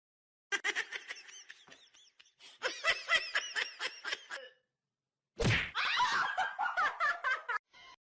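Two bouts of laughter in quick pulsing bursts, separated by a short silence about halfway through.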